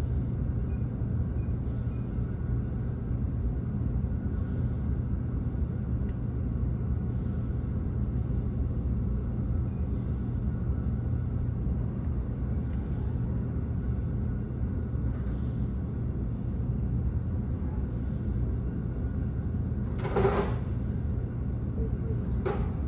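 Steady low engine rumble with a constant hum. Two brief, sharper sounds stand out: one about 20 seconds in and a shorter one near the end.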